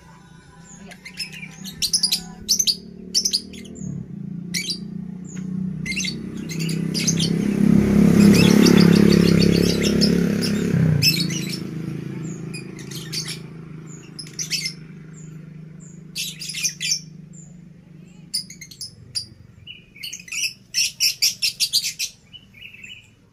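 Caged songbird singing continuously, a run of short, high, quickly repeated chirping phrases. Midway, a louder rushing sound swells and fades over several seconds.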